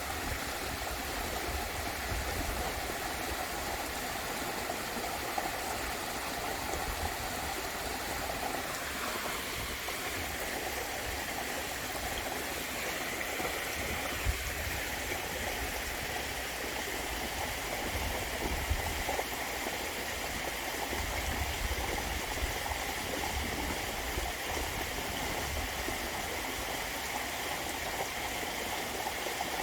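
Steady rush and splash of water falling in a garden waterfall. Its pitch shifts higher about ten seconds in.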